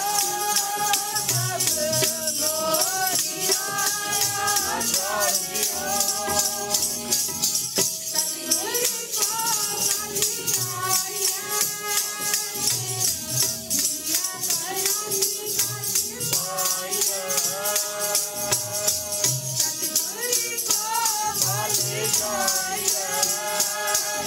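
Sikh kirtan: voices singing a devotional hymn over a fast, steady jingling percussion and a recurring low beat.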